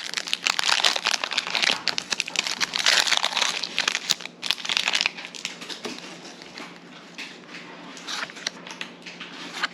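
Foil wrapper of a Pokémon trading-card booster pack crinkling as it is handled and opened. Dense and loud for about the first five seconds, then quieter, scattered rustles.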